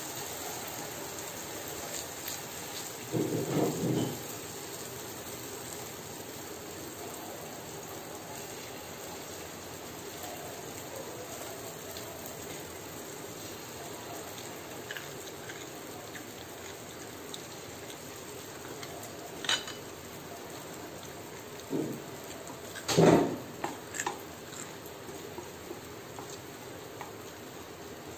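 Malpua batter frying in hot oil on a non-stick tawa, a steady sizzle. A few brief knocks of the ladle and spatula against the pan, one burst a few seconds in and the loudest late on.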